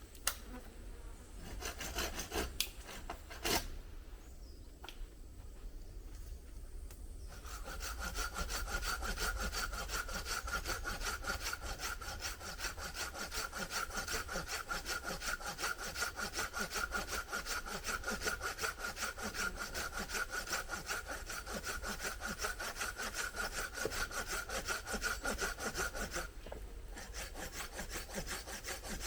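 Hand saw cutting through wood in quick, even back-and-forth strokes, starting about seven seconds in after a few sharp knocks.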